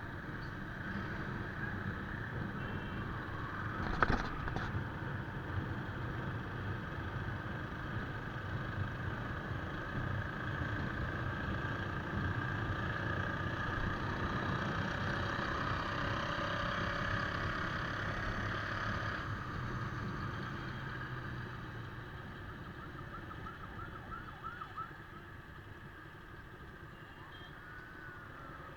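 Motorcycle riding on a highway: steady engine and road noise, with a sharp knock about four seconds in. It gets quieter over the last few seconds, and a falling tone comes near the end.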